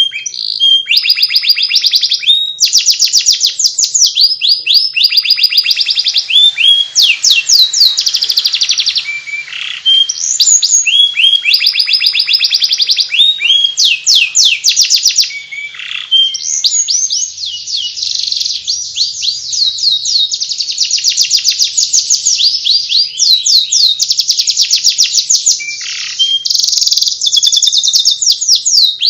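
Domestic canary singing its rapid chattering 'ngeriwik' song: fast trills of quick, high, downward-sweeping notes, run together almost without pause, with a few short breaks.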